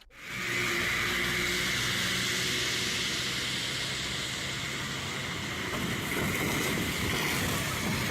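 Steady road and wind noise of a moving car, with a faint low engine hum, starting suddenly after a brief silence.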